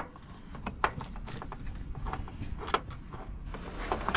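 Irregular light clicks and knocks of hand tools and hardware being handled on a boat's side plate, with a sharper click at the start and another at the end.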